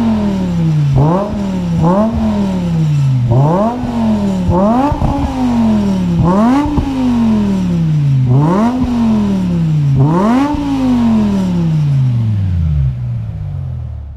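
BMW M5 E60's V10 engine through a resonator-delete, X-pipe and Schmiedmann muffler exhaust, revved repeatedly: about seven throttle blips, each climbing quickly in pitch and sliding back down slowly. The last rev falls away and the sound stops near the end.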